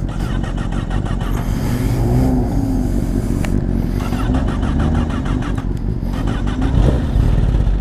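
Motorcycle engine running and revving, rising in pitch a couple of times, under heavy wind rush on the rider's microphone.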